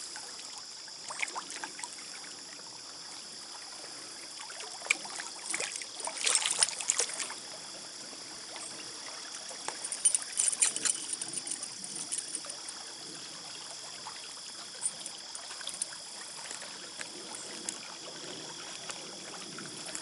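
Trout stream running steadily, with clusters of short splashy rattles about six and ten seconds in, while a hooked brown trout is being played.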